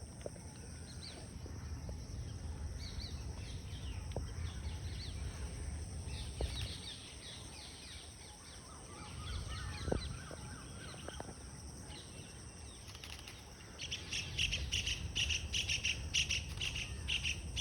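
Small birds chirping over a low wind rumble. About fourteen seconds in, a rapid, repeated high chirring starts and runs on.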